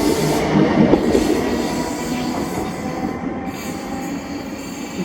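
A passenger train running along the platform and moving away, its sound slowly fading, with steady squealing tones that die out in the first second.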